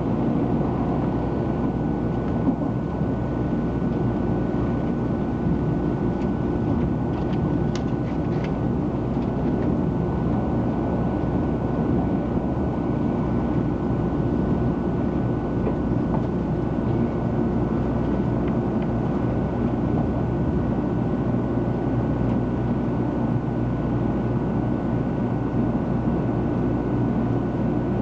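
Steady running noise heard inside the passenger cabin of a 300 Series Shinkansen: a low rumble of the train on the rails with faint steady hums, and a few faint clicks about eight seconds in.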